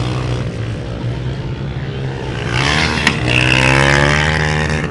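Motocross dirt bike engine running, then revving up and growing louder from about halfway through, easing off near the end, with a sharp click shortly after the rise begins.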